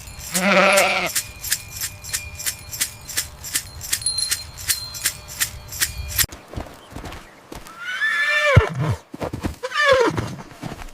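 A Boer goat kid bleats once over steady clicking at about three clicks a second. Then the sound changes abruptly, and another animal gives two loud calls that fall steeply in pitch.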